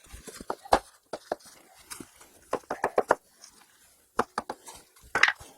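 Irregular sharp taps and knocks, about a dozen of them, from firebricks and tools being handled while a brick lintel is fitted.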